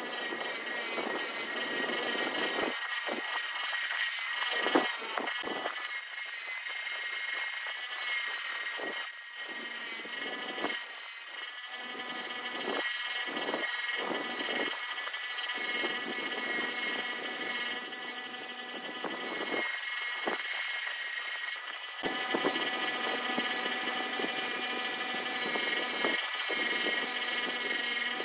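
A power tool's motor running with a steady whine, its load rising and falling throughout.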